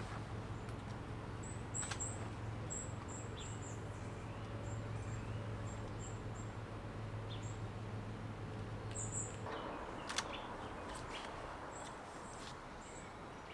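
A small bird calling a series of short, high-pitched chirps, at times several a second, over a low steady hum that stops about nine and a half seconds in. A single sharp click comes just after.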